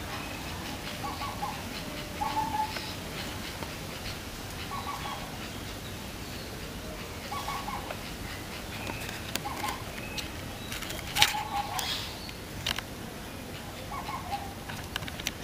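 A bird calling in short, repeated notes, one every second or two at irregular gaps, over a steady background hiss. A few sharp clicks come near the end.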